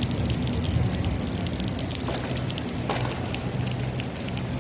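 Light rain falling and dripping, a steady wash of water with many small drop ticks, over a steady low hum.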